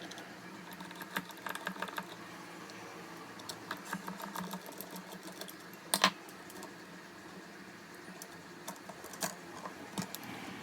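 Scattered small clicks and taps of laptop parts and screws being handled while the laptop is taken apart, with one sharper knock about six seconds in.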